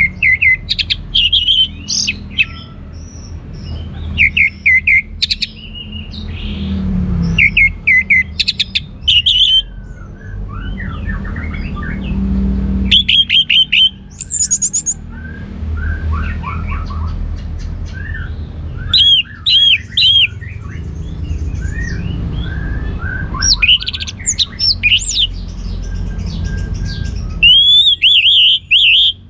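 Orange-headed thrush (anis merah) singing in full song: loud bursts of quick, sweeping whistled phrases every few seconds, with softer chirps between them, over a steady low rumble.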